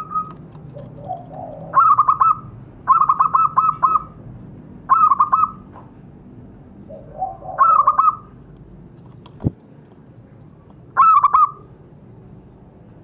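Zebra dove (perkutut) cooing in five short bouts, each a quick run of repeated notes, with a single sharp knock between the fourth and fifth bouts.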